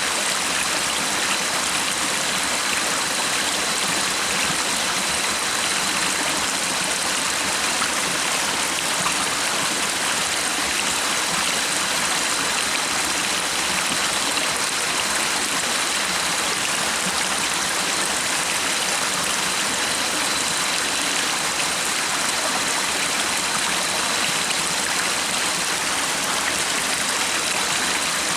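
A stream flowing and splashing steadily over rocks, with no change in level.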